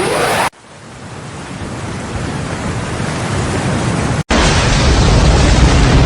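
Steady roar of rushing floodwater in two cut-together clips. The first fades up from quiet. The second cuts in abruptly about four seconds in, louder and with a heavy low rumble.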